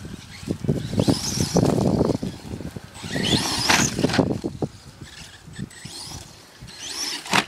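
Brushless electric motor of a radio-controlled monster truck on a 2-cell LiPo, whining sharply up in pitch in three short bursts of throttle, with rough tyre noise on the ground.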